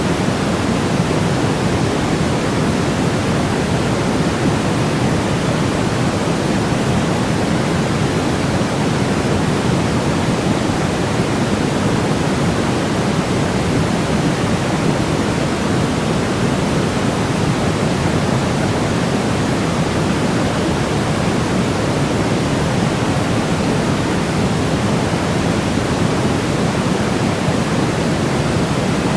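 Steady, unchanging white noise for baby sleep, a smooth hiss weighted toward the lows, closer to pink noise than to flat white noise.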